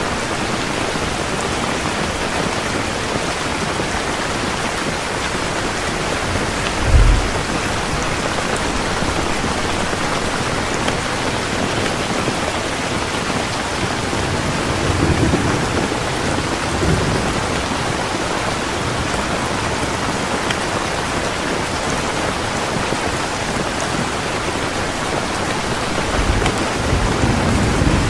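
Heavy rain falling steadily, with a short low thunder boom about seven seconds in and softer rumbles of thunder later on and near the end.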